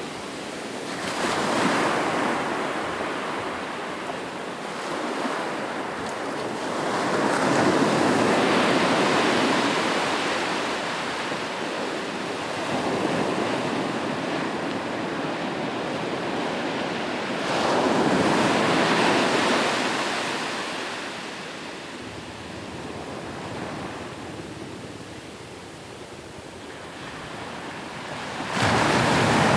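Ocean waves breaking on the shore, each wave surging with a sudden rush about every ten seconds and then washing back in a steady hiss.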